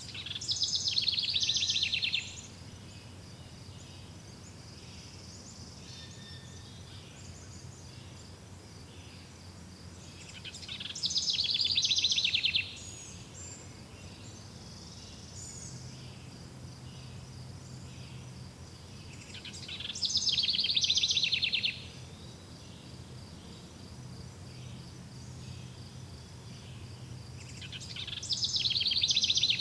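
A songbird repeating a rapid trilled phrase about two seconds long, four times at even spacing of roughly nine seconds, each one swelling and then stopping abruptly, over a steady high-pitched insect drone.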